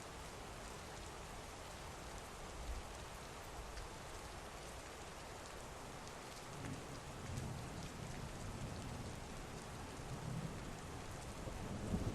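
Heavy rain falling steadily, with low rolling thunder rumbling in from about halfway through and growing louder near the end.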